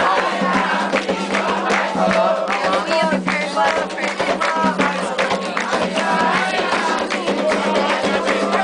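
Candomblé ritual song for Xangô: voices singing together over steady drumming and percussion.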